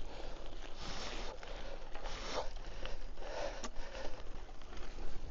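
A cyclist breathing hard while climbing on a rutted farm track, a heavy breath about once a second, with faint crunching and ticking from the tyres on the rough ground.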